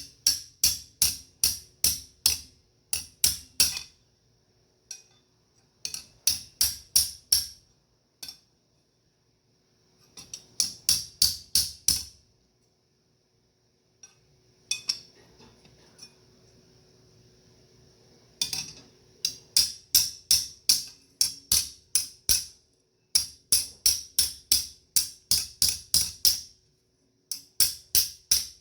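Hand hammer striking metal on an anvil in forging, about three ringing blows a second in runs of five to eight, with short pauses between runs.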